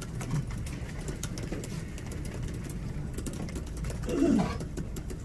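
Steady low room hum with scattered sharp clicks of camera shutters firing. About four seconds in comes a brief murmur falling in pitch.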